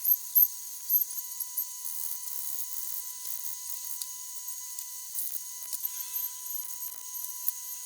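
Stick welding with a 3.25 mm rutile electrode: the arc hisses and crackles steadily, with a few louder pops in the first second or so. A steady thin whine runs under it.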